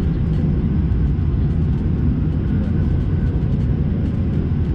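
Steady low rumble inside the cabin of an Airbus A220-300 jet airliner, the sound of its Pratt & Whitney PW1500G geared turbofan engines and the airflow around the fuselage, with faint light ticks of cabin rattle over it.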